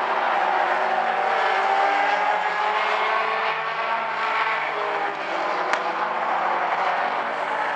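A field of mini stock race cars running laps on an oval, their four-cylinder engines held at high revs. Several engines sound at once, their pitches sliding gently as cars pass, with one sharp click about two-thirds of the way in.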